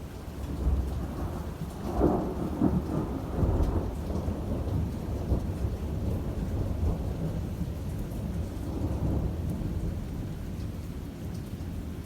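A long roll of thunder during a rainstorm: the rumble builds in the first second, peaks with several sharper cracks about two to four seconds in, then rolls on and slowly fades, over steady rain.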